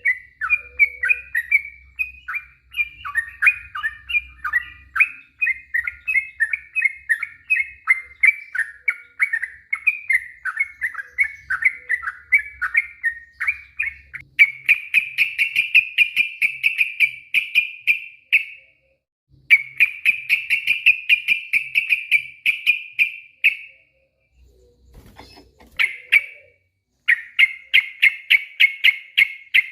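Sooty-headed bulbul (trucuk) singing. It starts with a run of varied chirping notes, then about halfway in breaks into long, very rapid trills lasting several seconds each, with short pauses between them. This is the long 'ropel' song that keepers play to provoke other trucuk into singing.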